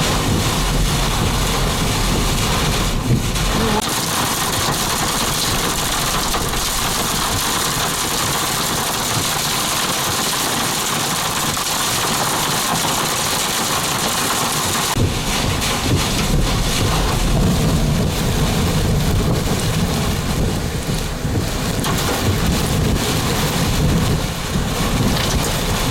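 Heavy wind-driven rain from a severe thunderstorm, a steady loud hiss of downpour. A low rumble is there at the start, fades for a while, and comes back about halfway through.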